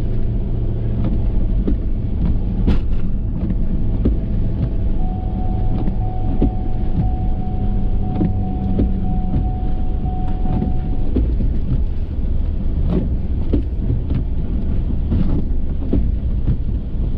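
Ford F350 pickup running steadily while pushing snow with a Boss plow, with scattered knocks and clunks throughout. A steady, even tone holds for about six seconds in the middle.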